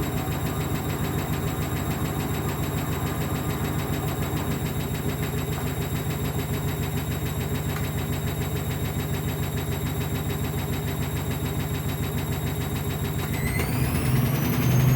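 Ocean 900 washing machine's drum spinning, with a rapid, even pulsing from the motor and drum; about 13 s in the motor speeds up with a rising whine. The load is not balanced, but the machine's strong suspension keeps it stable.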